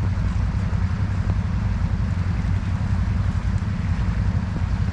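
Off-road vehicle engine running steadily while riding, mixed with wind buffeting the microphone: a constant low rumble with no revving or gear changes.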